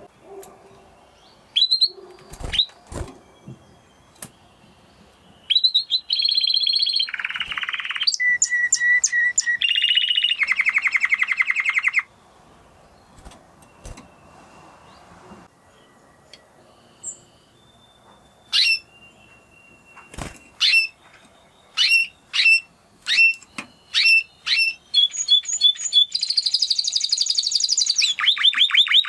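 Spanish Timbrado canary singing in phrases: a long fast trill, then a quieter pause, a string of separate repeated whistled notes, and a fast rolling trill near the end. A few sharp knocks come in between.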